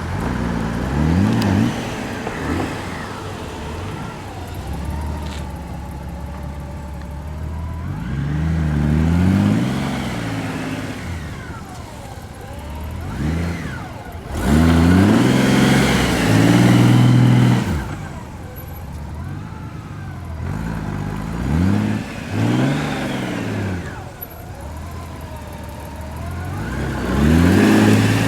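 Honda GL1800 Gold Wing's flat-six engine revving up and dropping back again and again during slow-speed turns, its pitch rising and falling every few seconds. The longest, loudest surge comes about halfway through.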